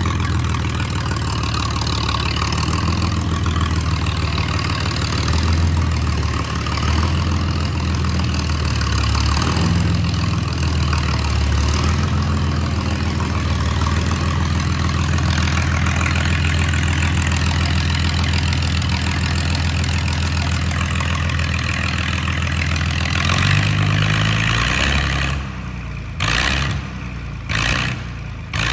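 Straight-piped John Deere 4010 LP tractor's propane-fuelled six-cylinder engine running steadily with its exhaust coming straight out of the manifold, very loud. Near the end the engine sound drops away, leaving short, uneven bursts of noise.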